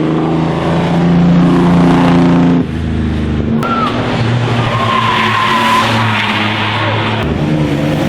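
Racing car engine running loud at steady revs, breaking off about two and a half seconds in, then pulling again while the tyres squeal for a few seconds.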